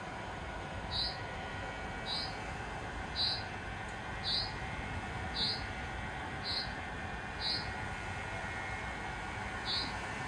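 A small bird chirping over and over, one short, high, falling note about once a second, with one beat skipped near the end, over a steady low hum.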